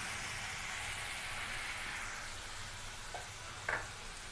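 Tomato wedges and ginger sizzling in hot desi ghee in an aluminium kadai: a steady hiss that eases off after about two seconds, with two short faint clicks near the end.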